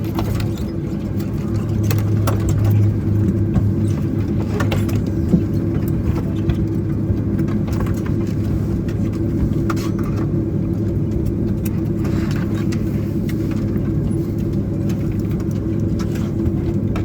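Steady cabin noise inside a Boeing 767-300ER airliner: the engines and airflow hold an even low hum, with a few faint ticks.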